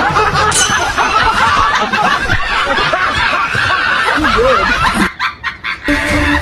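Many people laughing and snickering together, a dense overlapping laugh like a dubbed-in laugh track, broken up by a few brief dropouts about five seconds in.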